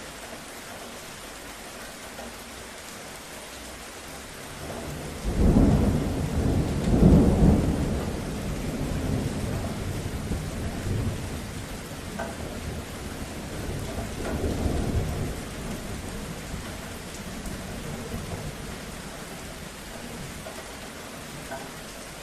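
Steady rain hissing, with a roll of thunder that swells about five seconds in, peaks a couple of seconds later and rumbles on, with a second, weaker rumble around the middle before it fades back to the rain.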